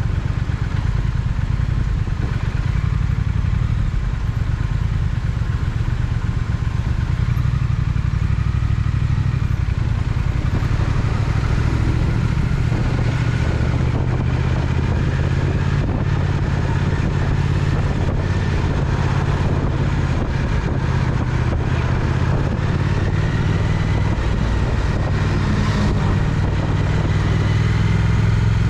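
Triumph Speed Twin motorcycle's parallel-twin engine running steadily under way, a continuous low engine note with road noise.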